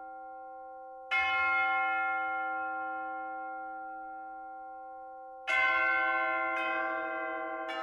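Bell chimes ringing: one bell is struck about a second in and rings out slowly. A run of further strikes begins near the end, about a second apart, each pitched lower than the one before.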